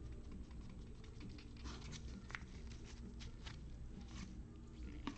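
Faint scratchy rustling and soft clicks of trading cards being handled and slid through the hands, over a low steady hum.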